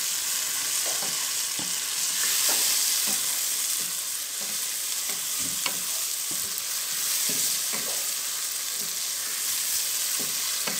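Chicken pieces frying in hot oil with onion, tomato and green chilies, a steady sizzle, while a wooden spatula stirs and scrapes them around the pan in irregular strokes.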